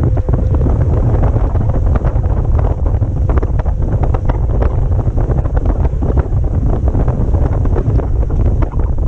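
Wind buffeting an action camera's microphone on a moving motor yacht: a loud, steady low rumble with constant crackling gusts.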